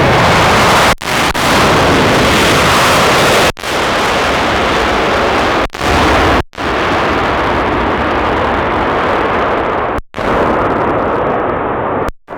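Loud, steady roar of a jet airliner passing close, broken by several sudden brief dropouts.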